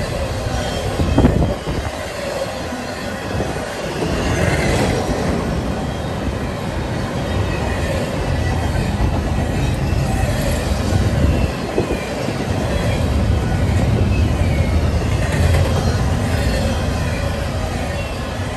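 Intermodal freight train's double-stack well cars and trailer flatcars rolling past close by: a steady low rumble and clatter of steel wheels on rail, with thin wheel squeals coming and going and a couple of sharper clanks, about a second in and around eleven seconds in.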